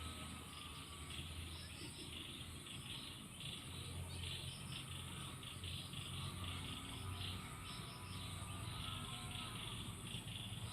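Insects chirping in short, irregular repeated bursts, over a steady low rumble.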